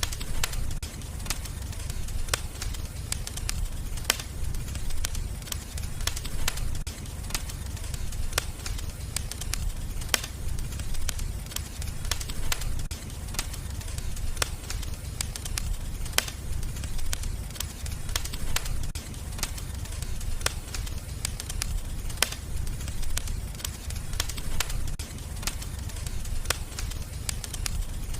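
Wood fire crackling in a fireplace: frequent sharp snaps and pops at irregular intervals over a steady low rumble of the burning fire.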